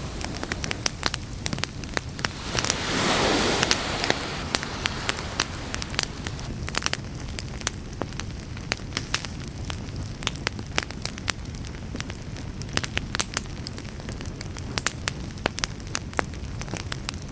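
Wood campfire crackling, with frequent sharp, irregular pops and snaps over a steady low rumble. A brief rush of noise swells and fades about three seconds in.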